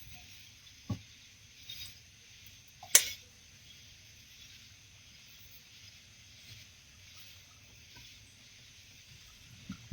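Small handling knocks in a kayak: a low knock about a second in and a sharp click about three seconds in, over a steady high hiss of night ambience.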